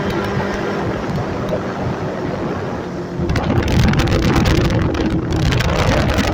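Motorcycle engine running with wind buffeting the microphone; about three seconds in, the rush of wind and the rumble get louder.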